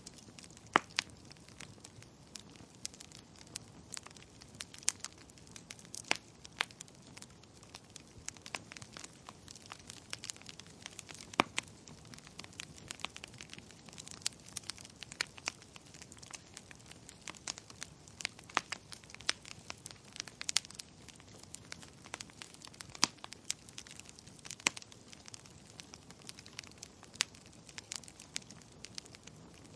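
Wood fire burning in a fireplace, crackling with irregular sharp pops several times a second over a soft steady hiss.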